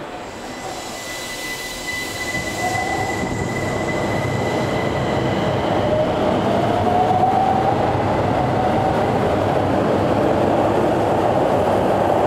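Keihan Keishin Line electric train running, its traction motors whining and rising in pitch while the rolling noise grows steadily louder, as when the train picks up speed. A thin steady high tone sounds through the first few seconds.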